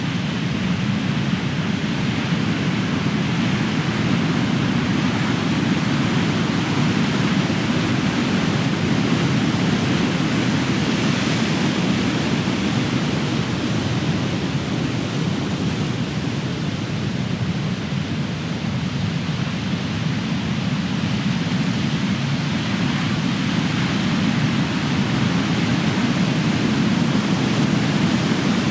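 Ocean surf: large waves breaking and washing ashore in a continuous deep rumble that swells and eases slowly.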